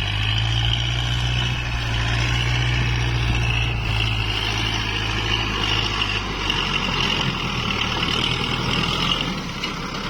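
Kubota MU4902 farm tractor's diesel engine running steadily under load, with a low drone, which eases a little near the end.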